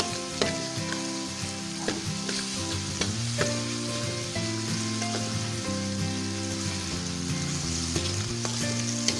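Ground chili, shallot and garlic spice paste with sliced tomato sizzling in oil as it is sautéed in a wok. A metal spatula scrapes and clicks against the pan every second or so.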